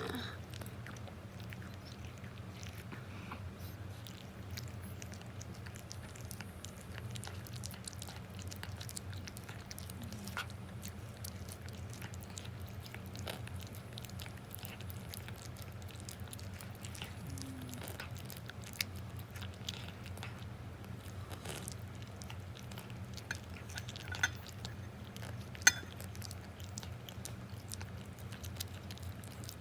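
An elderly cat chewing and licking food: faint, irregular small clicks over a steady low hum, with a few sharper clicks near the end.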